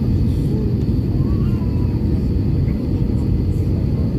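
Airbus A319 airliner noise: a steady, deep rumble with a faint high whine above it.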